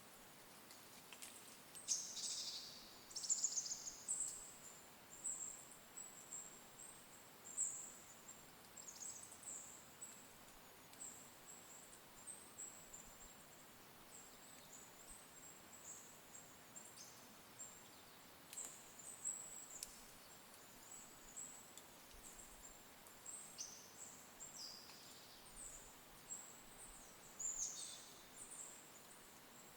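Small songbirds calling: a scatter of thin, very high-pitched chirps and short downward-sweeping notes, a cluster of louder ones about two to four seconds in, over faint hiss.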